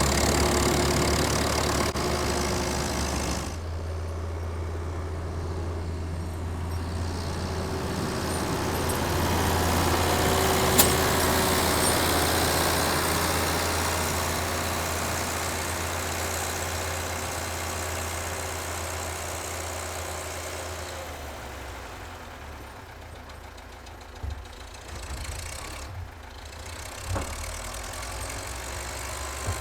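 Tractor engine running steadily with a low hum, fading somewhat in the second half, with a few short knocks near the end.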